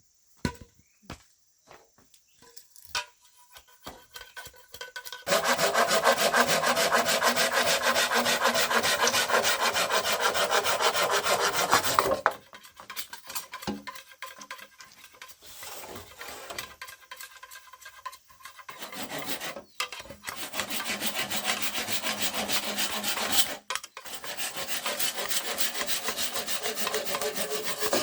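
A tool working bamboo, a rapid continuous scraping rasp. Light scattered knocks come first; the scraping starts about five seconds in, stops about seven seconds later, and returns for most of the last eight seconds.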